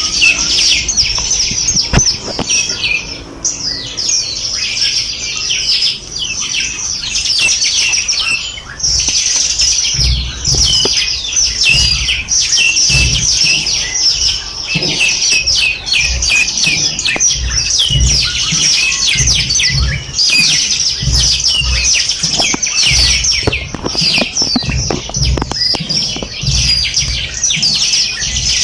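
Dense chorus of many small birds chirping and trilling rapidly and continuously in high, quick notes, with irregular low rumbling underneath from about ten seconds in.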